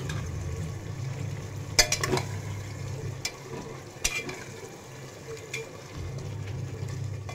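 Chicken masala with potatoes and peas sizzling in a pressure cooker on a high gas flame while a steel ladle stirs it, clinking and scraping against the pot a few times over a steady low hum.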